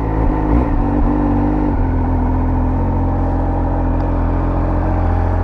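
Triumph Speed Triple 1200 RS's three-cylinder engine running at a steady speed, its note shifting slightly about two seconds in.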